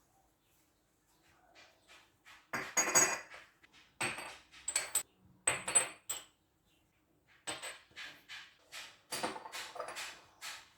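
Kitchen clatter: dishes and utensils being handled, in short clusters of clinks and knocks that start about two and a half seconds in.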